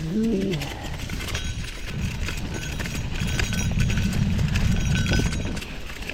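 Gravel bike tyres rolling over a rough, wet dirt fire road, a dense low crunching and clattering of stones with the bike rattling over the bumps, getting louder about two seconds in. A brief wavering tone ends about half a second in.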